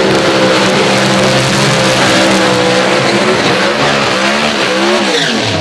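Pro Stock drag cars' engines running flat out down the drag strip, a steady high engine tone that bends and falls away steeply near the end.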